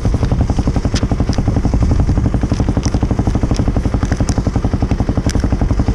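Single-cylinder four-stroke engine of a Kawasaki KLX250 dual-sport motorcycle running steadily with a fast, even pulse. A few sharp clicks sound over it.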